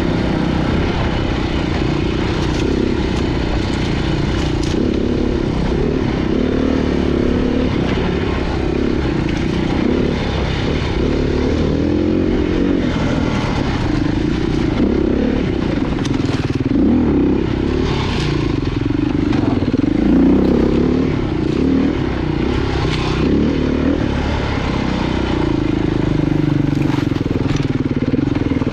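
Off-road motorcycle engine running with the throttle rising and falling over rough ground, broken by a few sharp knocks and scrapes.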